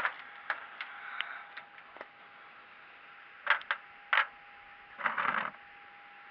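Irregular clicks and knocks, several in the first two seconds and a few more near the middle, then a short scraping rustle about five seconds in, over a steady faint high hum.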